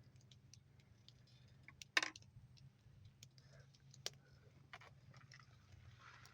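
Wood fire burning with big logs, crackling in faint, irregular pops, one louder pop about two seconds in.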